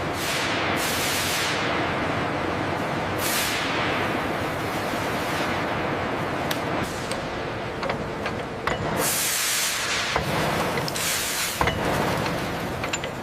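Compressed-air blower hissing steadily, with repeated louder high blasts that tail off, and scattered sharp ticks near the end.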